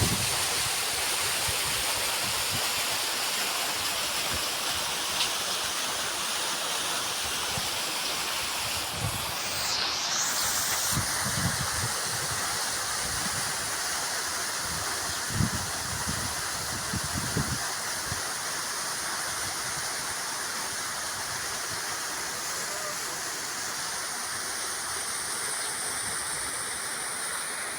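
Running water, a stream or small waterfall flowing with a steady rush, with scattered low thuds during the first two-thirds.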